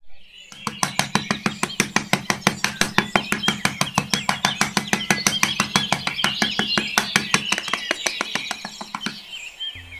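Birds chirping over a fast, even clicking of about six clicks a second and a steady low hum. The clicking and hum stop about nine seconds in.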